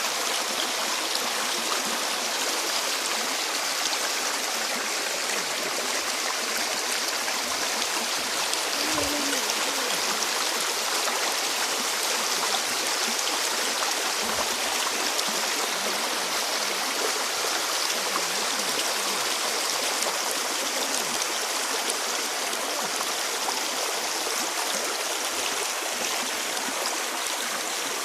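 Water of a stream flowing steadily.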